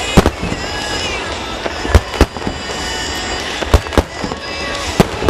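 Aerial firework shells bursting: about eight sharp booms, mostly in close pairs, coming every second and a half to two seconds.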